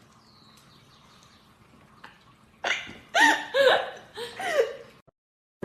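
A pet's short pitched vocal calls, about four in a row in the second half, each sliding up and down in pitch, after a stretch of faint low hum.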